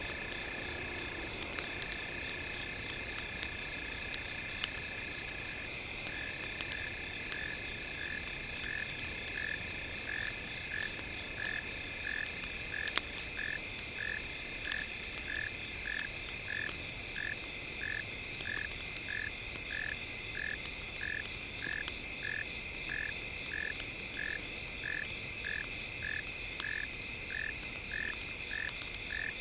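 Campfire crackling in scattered sharp pops, over several steady high tones. From about six seconds in, an evenly repeating chirp joins at roughly one and a half pulses a second.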